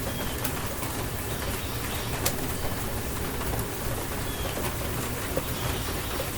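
Steady rain falling, with individual drops ticking sharply now and then, and a bird giving a couple of short faint calls through the rain.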